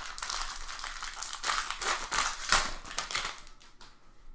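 Crinkling and rustling of a foil trading-card pack being opened and its cards handled, with sharp little clicks among the rustle, easing off about three and a half seconds in.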